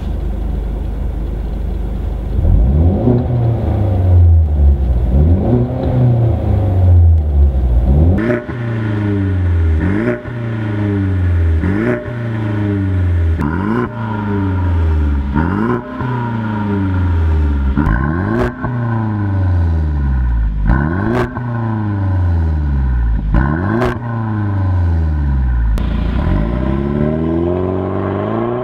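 Mercedes-Benz GLC250's turbocharged four-cylinder engine through an Armytrix valvetronic exhaust, revved again and again, the pitch climbing and falling back about every two seconds, with occasional sharp cracks between revs.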